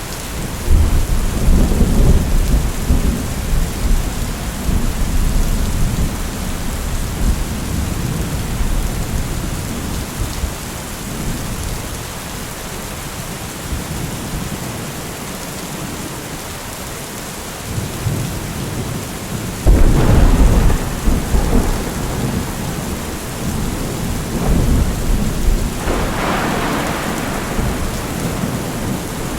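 Steady rain with rolling thunder: a long low rumble begins about a second in, a sudden, louder thunderclap about two-thirds of the way through, and another rumble near the end.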